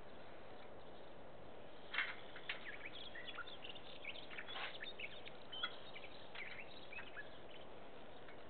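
Small birds chirping in short, scattered calls about two to seven seconds in, over a steady outdoor background hiss.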